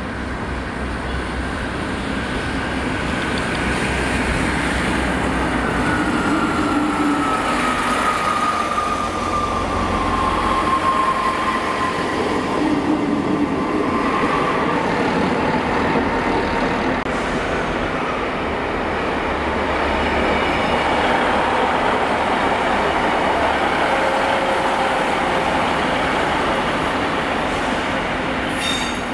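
Diesel multiple-unit trains running through the station: engine drone and wheels on the rails, with a whine that drops in pitch as a train passes, about a quarter of the way in.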